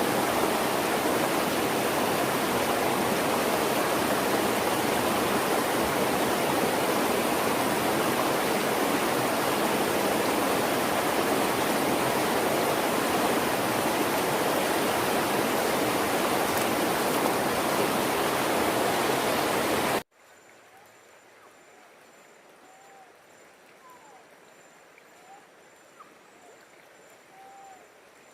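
Rushing stream water, loud and steady. About twenty seconds in it cuts off abruptly to quiet forest ambience with short chirping calls and a thin, steady high tone.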